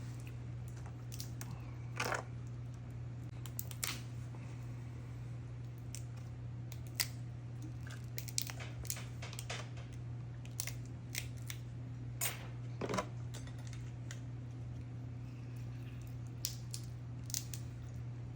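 Snow crab shells being cracked and picked apart by hand while eating, with scattered short sharp snaps and crunches over a steady low hum.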